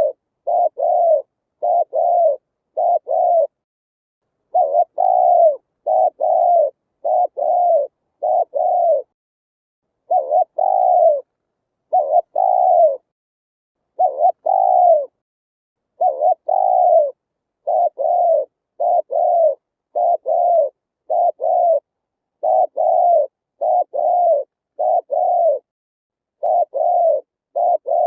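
Spotted dove cooing: phrases of two or three short, low coos repeated over and over, each phrase a second or so apart, with complete silence between notes.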